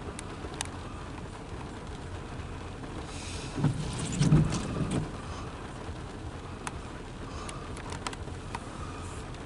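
Freight train rolling by: a steady low rumble with scattered sharp clicks of wheels on the rail, and a louder stretch of low thumps and hiss about halfway through.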